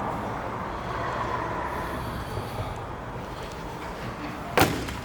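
Steady vehicle noise, a low rumble with a faint hum, broken by one sharp knock near the end.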